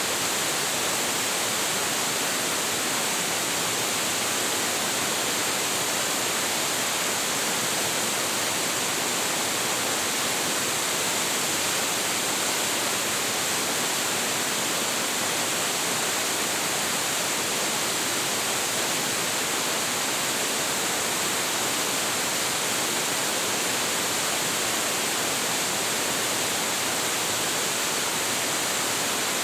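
A large waterfall pouring heavily, a steady, unbroken rush of falling water with a strong hiss in the high range.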